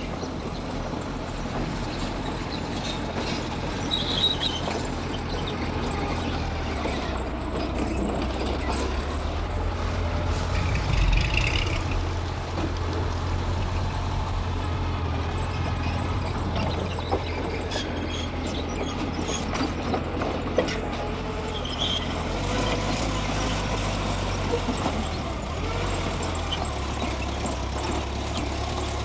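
Mitsubishi bulldozer's diesel engine running steadily, a little louder around the middle, with a few short high squeaks.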